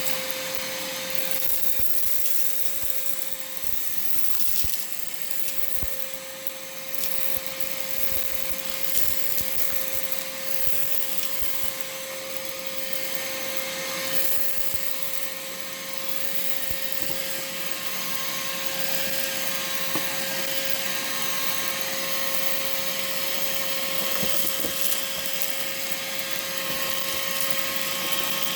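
Vacmaster 2.5-gallon, 2-peak-horsepower shop vacuum running steadily as it vacuums dirt off a carpet through a floor nozzle. It makes a steady whine over an airy rush, with scattered small clicks.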